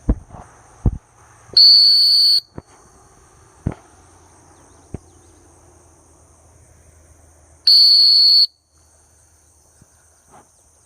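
Two long single blasts on a dog-training whistle, about six seconds apart, each a steady shrill tone: the sit whistle that stops a retriever on a blind retrieve so the handler can give it a cast. Crickets or other insects buzz steadily throughout, and there are a few short sharp knocks near the start.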